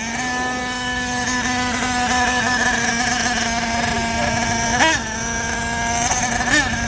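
Remote-control car motor running at a steady whine, with two brief rises in pitch like quick throttle blips near the end.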